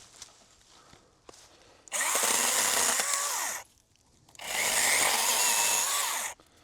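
Handheld power tool run in two bursts of just under two seconds each, its motor pitch bending down and back up while it works.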